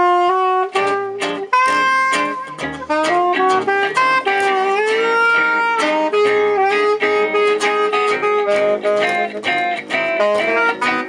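Live gypsy-jazz (jazz manouche) band playing a tune: a sustained melody line over plucked guitar chords and low bass notes.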